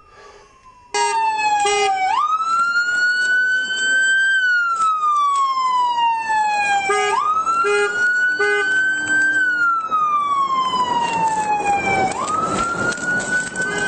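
Police car siren in a slow wail, cutting in suddenly about a second in: each cycle climbs quickly, holds, then falls slowly, repeating about every five seconds.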